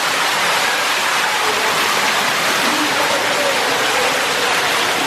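Steady, loud rush of flowing water, with no break or change.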